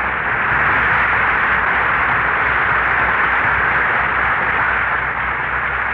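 Loud, steady static hiss from an old radio broadcast recording, with no speech or music over it.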